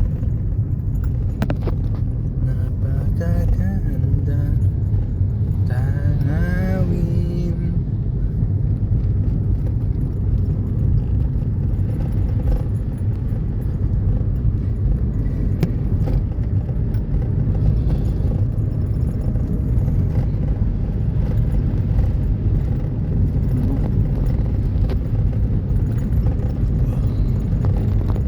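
A loud, steady low rumble, with a person's voice calling out between about two and eight seconds in.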